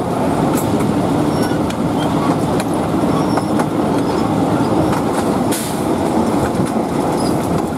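Narrow-gauge passenger train running along the line, heard from an open vestibule: a steady loud rumble of wheels on rail with a low hum and scattered light clicks.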